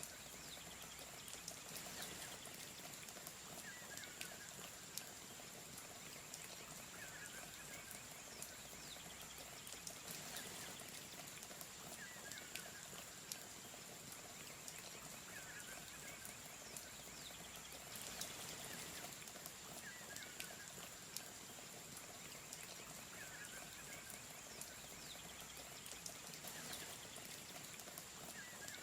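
Faint steady rush of flowing water from a waterfall, with a short animal call repeating about every two to three seconds and scattered faint clicks.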